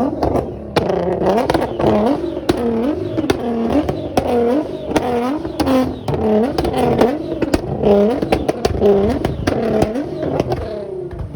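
A car engine being revved over and over, the pitch dipping and climbing again about one and a half times a second, with sharp pops and crackles between the revs.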